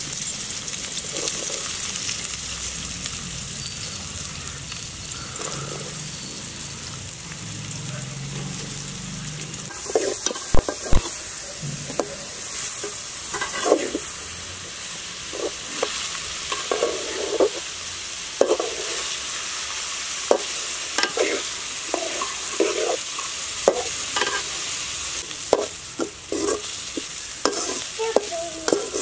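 Chopped onions sizzling steadily as they fry in hot oil in a metal pot. From about ten seconds in, a metal skimmer stirs them, scraping and knocking against the pot, with two sharp knocks at the start.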